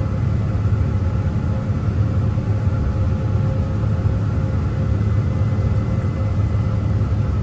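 Heavy farm machine's diesel engine running steadily, a constant low rumble with a faint steady hum above it.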